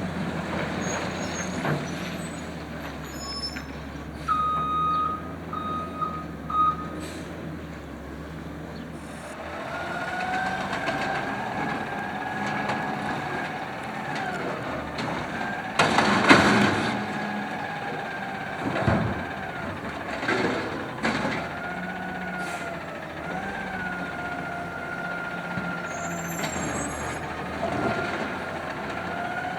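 Automated side loader garbage truck's diesel engine idling, with a few short beeps about five seconds in. From about ten seconds in the engine revs up and holds a steady, slightly wavering pitch, typical of the truck powering its hydraulics. A loud hissing burst comes about sixteen seconds in, and a few knocks follow shortly after.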